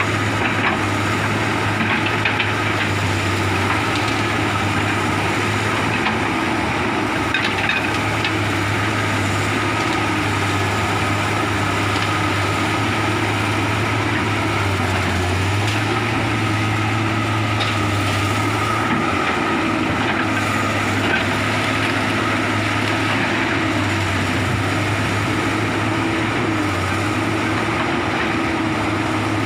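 Komatsu excavator's diesel engine running steadily with a thin whine over it, with a few sharp snaps of wood breaking as it clears timber.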